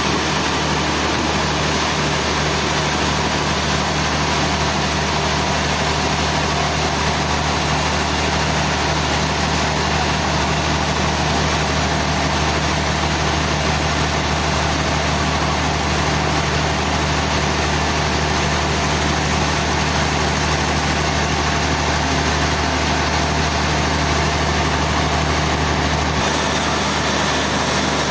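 A sawmill's engine-driven machinery running steadily, with a low hum and constant mechanical noise; near the end the low hum shifts slightly.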